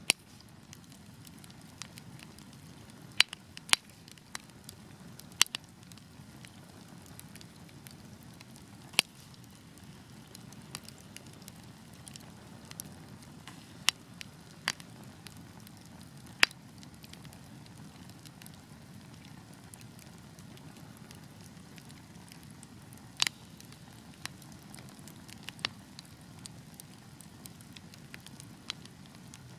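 Fire burning in a fireplace: a steady low rumble of flames with sharp, irregular crackles and pops, a handful of them much louder than the rest.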